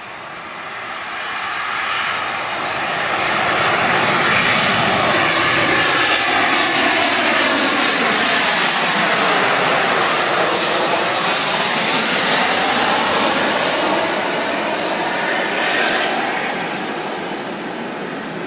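Boeing 737-800 airliner's twin CFM56-7B turbofan jet engines passing by on its landing approach. The jet noise swells, holds loud for about ten seconds with a sweeping whoosh as the plane goes past, then fades.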